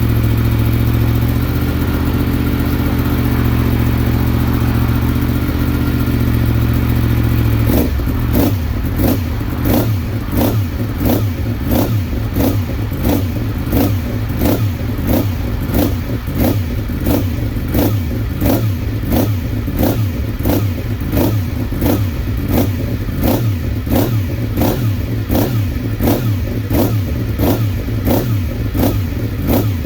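2017 Yamaha FZ-10's crossplane inline-four engine idling steadily as it warms up after a cold start. From about eight seconds in, sharp regular steps at about one and a half a second sound over the idle, footsteps of someone walking around the bike.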